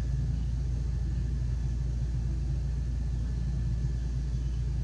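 Steady low hum that does not change, with a faint thin high tone above it.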